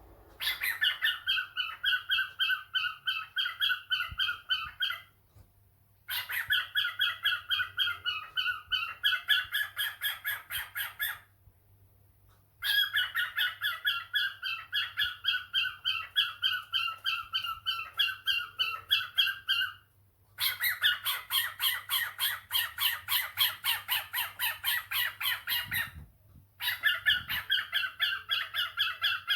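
Cockatiel calling in rapid repeated chirps, about four or five a second, in runs of several seconds broken by short pauses.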